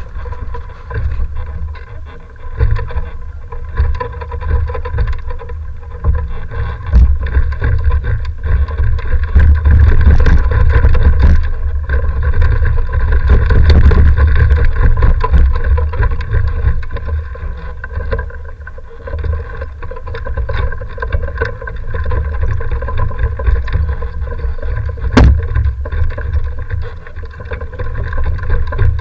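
Strong gusty wind buffeting the microphone: a heavy, uneven rumble that swells in the gusts, loudest in the middle, with a faint steady whine beneath it.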